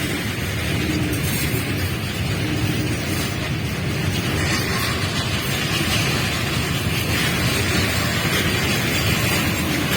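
Indian Railways train running past at speed: a steady rumble of wheels on the rails, with no break and no horn.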